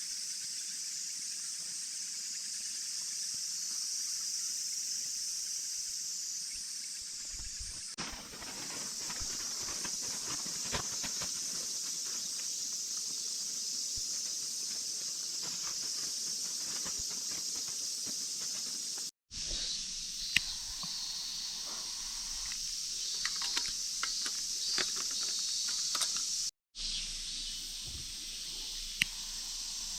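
Steady high-pitched insect chorus of a summer mountain forest. From about 8 seconds in, scattered light clicks and knocks of camp gear being handled, with two brief silent cuts.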